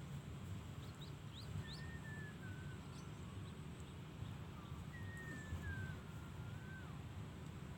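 Bird calling over a steady low rumble: a few quick rising chirps, then a long whistled note that slides down in steps, repeated a few seconds later.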